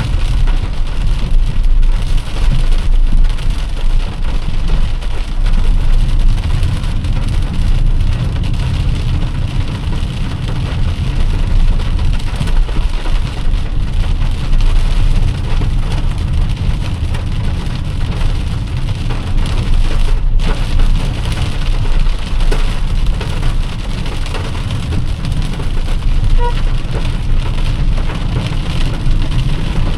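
Heavy rain falling on a moving car, with a steady low rumble from the car on the road beneath the patter of drops.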